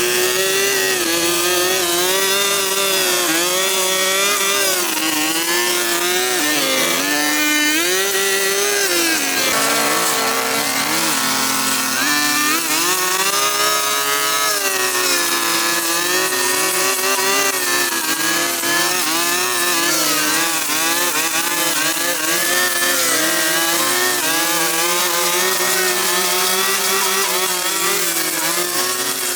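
Small petrol engine of a handheld power tool such as a chainsaw or brush cutter running at speed. Its pitch keeps rising and dipping as the throttle and cutting load change, with deeper dips about a third of the way through.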